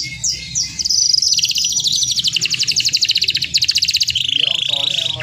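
Domestic canary in full, vigorous song: rapid trills of repeated high notes, changing about four seconds in to a lower, denser trill.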